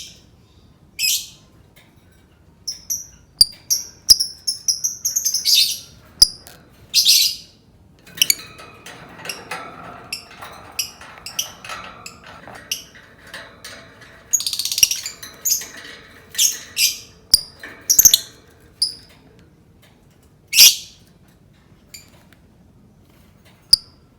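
Lovebird calling: sharp, shrill chirps and short squawks, some strung into rapid chattering runs, spaced irregularly with short gaps between them.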